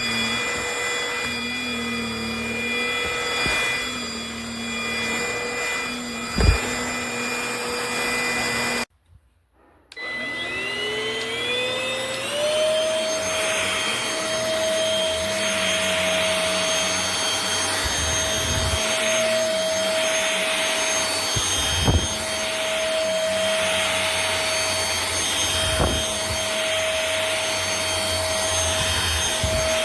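Cordless stick vacuum's motor running steadily with a high whine. About nine seconds in it cuts out suddenly, then starts again with a rising whine that settles at a higher steady pitch. A few sharp knocks are heard as it is worked.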